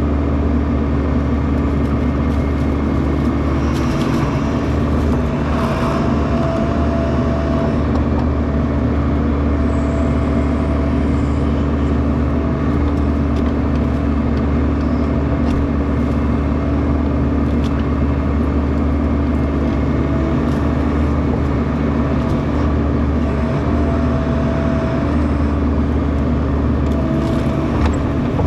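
Bobcat E42 compact excavator's diesel engine running steadily under load. A short higher whine rises over it several times as the machine works.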